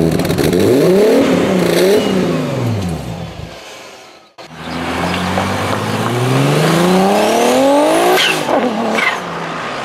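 B5 Audi A4 Avant's engine revved twice while standing still, the revs rising and falling each time. After a brief drop-out the car accelerates hard, its engine note climbing steadily for about three seconds before a gear change drops it near the end.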